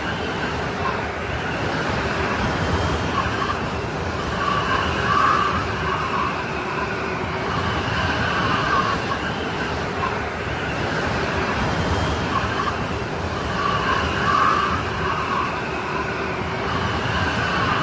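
Strong snowstorm wind blowing steadily, with a whistling tone that swells and fades, strongest in two gusts, about five seconds in and again near fourteen seconds.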